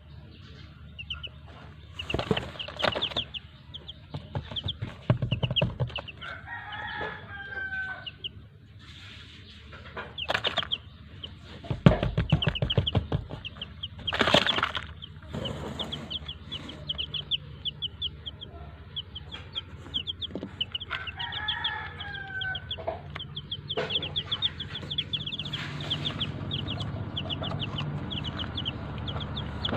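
Aseel chicks peeping rapidly and continuously in high, short chirps. An adult rooster crows twice, about seven seconds in and again past twenty seconds, with occasional clucking and a few loud noisy bursts.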